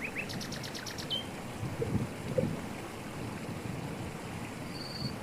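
Waterfall splashing steadily over rocks. A small bird calls a quick run of about seven high notes in the first second, and gives a short high whistle near the end.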